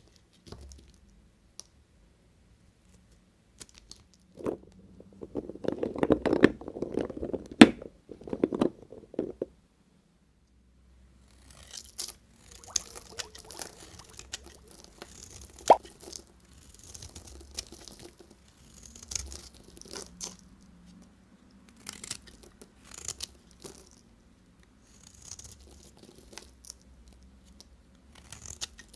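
Knife cutting through bars of soap. A dense, crackly crunching from about four to nine seconds in, then a run of short scraping slices, each about a second long, with small clicks between them.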